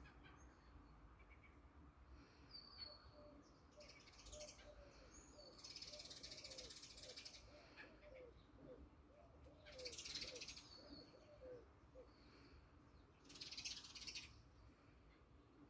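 Faint morning birdsong. Four rapid high trills ring out, one at about 4 s, a longer one at about 6 s, then at about 10 s and near 14 s, with short high chirps between them. A series of low, short notes runs through the middle.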